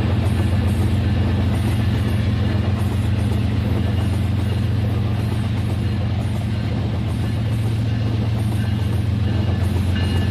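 Battery-powered Rail King toy train running on its track: a steady motor-and-gear drone with a faint regular clicking over it.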